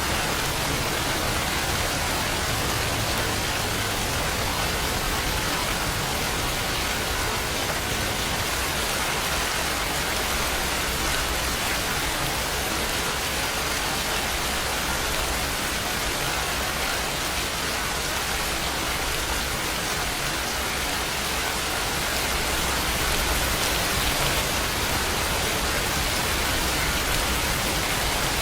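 Steady rain falling, a dense, even hiss of drops with no thunder or pauses.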